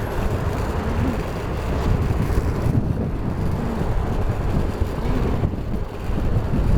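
Wind rushing over the microphone with a steady low rumble of wheels and vehicle, moving along a road at speed.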